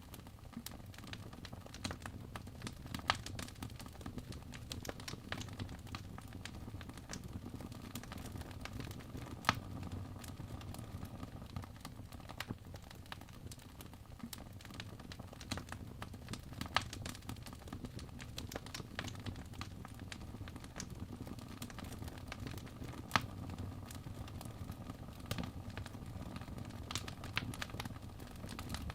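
Wood fire crackling in a fireplace: a steady stream of small irregular crackles with a few sharper, louder pops, over a low steady rumble.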